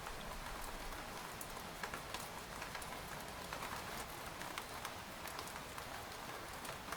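Rain falling on a tent: a steady hiss of rainfall with many scattered, sharp taps of single drops hitting the fabric.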